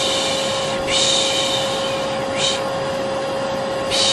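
Vacuum cleaner motor running steadily with a constant hum, while a person shushes 'shhh' over it again and again, about four shushes, one of them brief: a white-noise lullaby for settling a baby to sleep.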